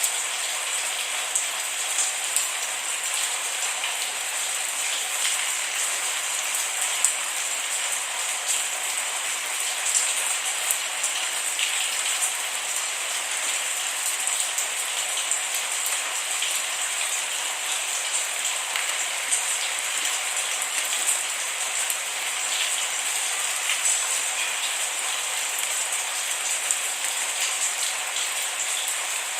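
Steady rain falling, an even hiss with many small drops pattering and ticking, and no thunder.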